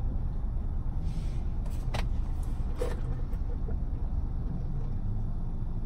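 Car engine idling steadily, a low hum heard from inside the cabin, with a couple of small clicks about two and three seconds in.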